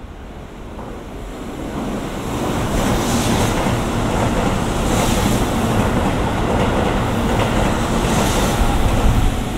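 Keihan new 3000 series limited express train passing through the station at speed without stopping: the rumble of wheels on rails and rush of air build over about two seconds, then stay loud as the train runs by.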